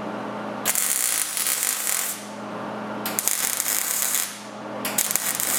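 Electric arc welder running short welds on the door's sheet steel: three bursts, the first two over a second long and the last shorter, over a steady low hum.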